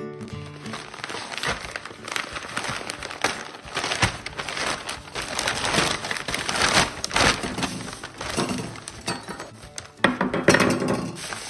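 White wrapping paper and a plastic bag crinkling and rustling as they are unfolded by hand, in irregular crackles, with the loudest crackling near the end.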